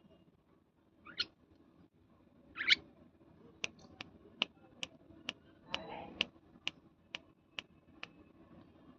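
A parrot gives two short chirps, then a regular run of sharp clicks about two a second, with a brief noisy burst around the middle of the run.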